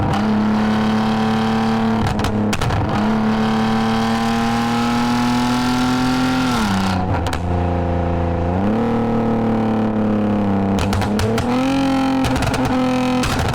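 2010 Lexus IS250 AWD's 2.5-litre V6 running through an aftermarket full exhaust with valved mufflers while driving. The engine note climbs slowly, drops about seven seconds in, rises sharply back up a couple of seconds later, and dips and climbs again near the end.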